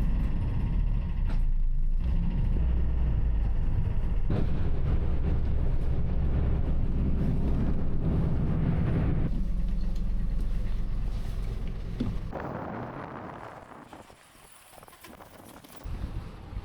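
A motor vehicle's engine running steadily, then fading away over a couple of seconds about three-quarters of the way through.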